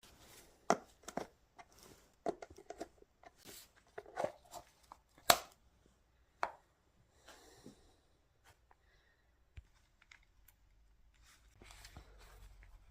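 Hand tools and metal engine parts being handled during a teardown: a series of sharp clicks and knocks, most of them in the first seven seconds, the loudest about five seconds in, then only a few faint ticks.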